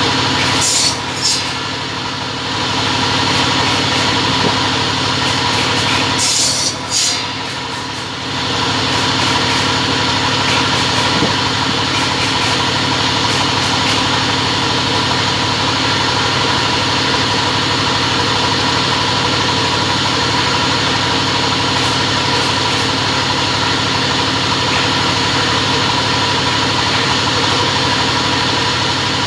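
Double-head cutting machine running with a steady mechanical hum. Two brief high hissing bursts come about a second in and about six seconds in, each followed by a short dip in level, before the hum runs on evenly.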